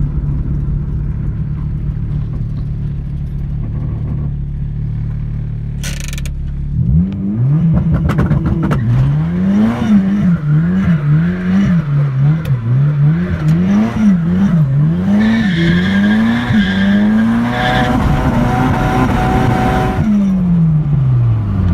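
Turbocharged four-cylinder car engine (a Honda F20B). It runs steadily at first, then about seven seconds in it is revved hard over and over, its pitch climbing and dropping roughly once a second. It winds down near the end.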